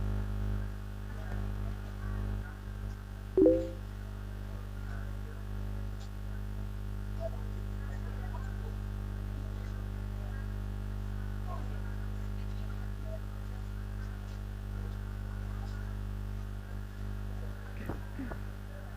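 Steady low electrical mains hum on the microphone line. A short pitched blip comes about three and a half seconds in.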